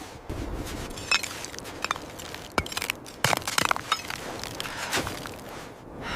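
Snow crunching in a series of sharp, irregular crunches and cracks, densest around the middle.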